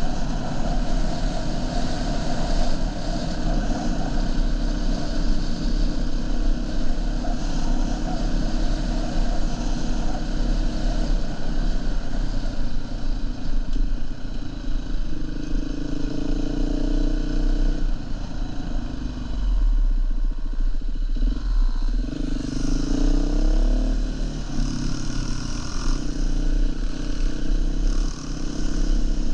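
Dirt bike engine running under way, its pitch rising and falling as the rider works the throttle through the gears.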